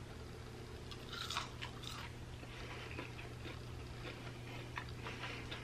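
Faint chewing and crunching of a crispy air-fried chicken wing, loudest about a second in.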